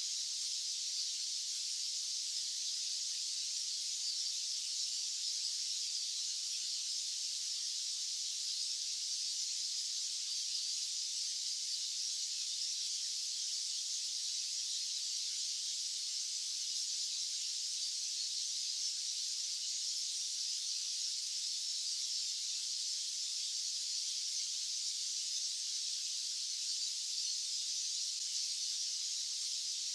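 Steady, high-pitched hiss of a white-noise track, unchanging, with no low rumble beneath it.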